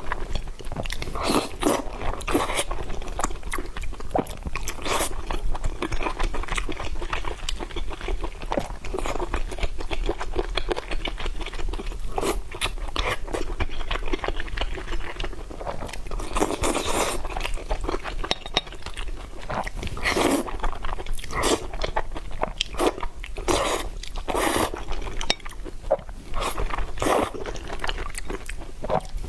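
A person eating crunchy food, likely the fried tendon with the noodles: many irregular crunching bites and chewing.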